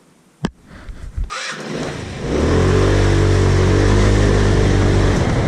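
A sharp click, then a car engine comes up and runs loudly and steadily from a little over two seconds in as the vehicle drives off.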